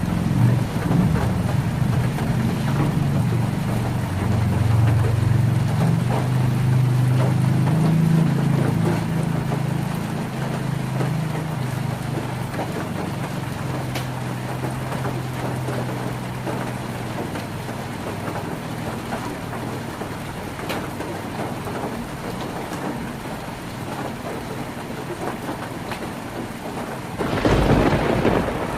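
Heavy rain drumming on a tin roof: a dense, steady patter of drops on metal sheeting. Through the first half a low rumble of thunder rolls and slowly fades, and near the end a brief, louder surge breaks in.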